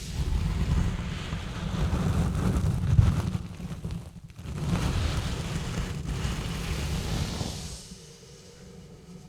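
Exfoliating gloves rubbing and scratching directly on a bare microphone, a dense scratchy noise with a heavy low rumble from the mic handling. It comes in two long spells with a short break between, then drops to much quieter rubbing for the last second or two.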